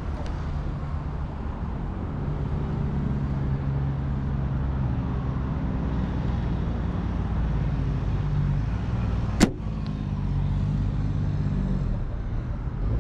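A single sharp crack of a PSE compound bow being shot, about nine and a half seconds in. It sounds over the steady low hum of an engine running throughout.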